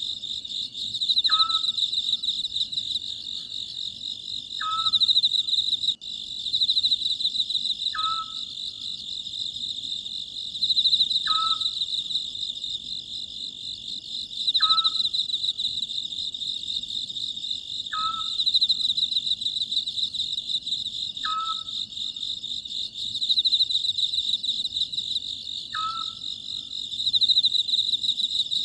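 Oriental scops owl calling, a short note repeated about every three seconds, over a steady chorus of crickets.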